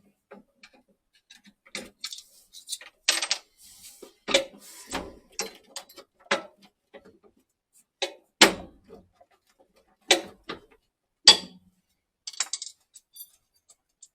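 Irregular clicks, knocks and metallic clinks of tools and fittings being handled while parts inside an Ariston boiler are refitted by hand. The sharpest knocks come about three, eight and eleven seconds in.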